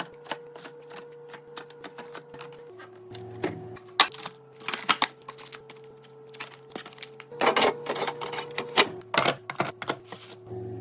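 Quick clicks and knocks of small objects being handled and set down, in clusters about four seconds in and again near the end, over soft background music of long held notes that change pitch every few seconds.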